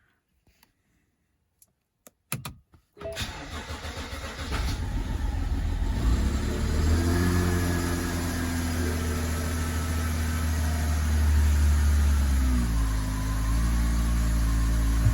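BMW N55 3.0-litre turbocharged straight-six starting about three seconds in after a couple of clicks, then running at a raised idle that drops lower and steadies a few seconds before the end. It is the engine's run after its cylinder 6 fuel injector was replaced for a misfire and surging idle.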